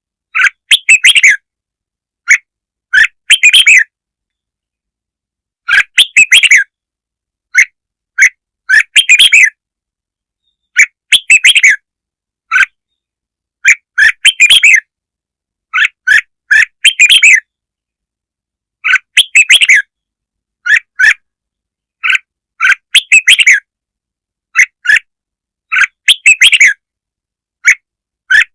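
Red-whiskered bulbul singing: short, quick warbled phrases repeated every two to three seconds, with silence between them.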